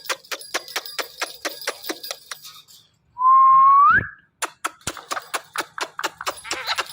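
Indian ringneck parrot giving one loud, clear whistle that holds its pitch and then rises at the end, about three seconds in. Before and after it comes a fast run of sharp clicks, about five a second.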